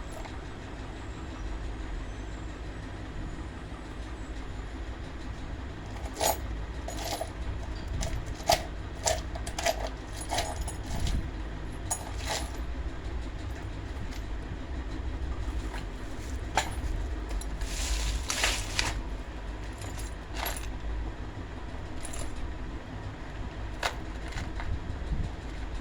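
Small metal parts and tools clinking and tapping at irregular intervals as a table fan is worked on, over a steady low hum. The clicks cluster through the middle of the stretch, some with a short metallic ring.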